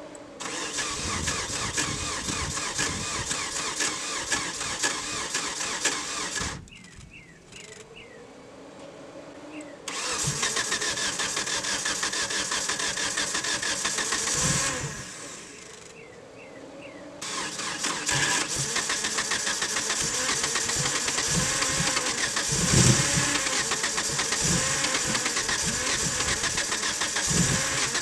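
1997 Mitsubishi Eclipse GST's 4G63 turbo four-cylinder being cranked by the starter in three long bursts with quieter pauses between, without settling into a steady idle. Freshly fitted with a new fuel rail, it turns over but won't stay running despite having spark and fuel.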